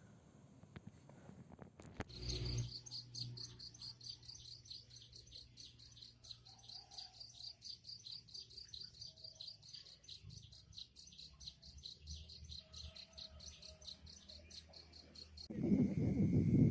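Crickets chirping at night in a rapid, even pulse. Near the end it gives way to a louder rushing noise.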